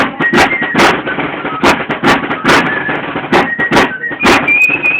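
Torito dance music: a high flute melody over a drum beating about twice a second in loose pairs. The flute rises to a held high note near the end.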